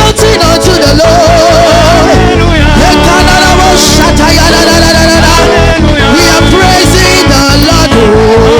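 Loud live praise music with a fast steady drum beat and singing voices, a lively dance-style church worship song.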